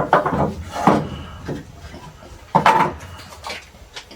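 Wooden 2x4 boards being handled and knocked together: three loud knocks, with lighter clatter between them.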